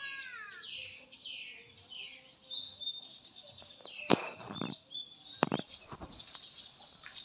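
Small birds chirping in a run of quick downward-sweeping calls, with a thin whistled note a little later. Two sharp knocks about four and five and a half seconds in are the loudest sounds.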